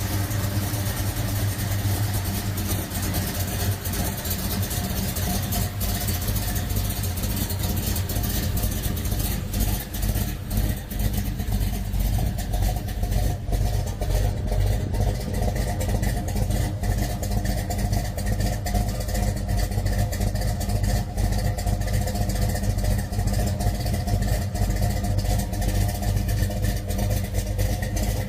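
A muscle car's engine running steadily at an even speed, with a strong low note and no revving.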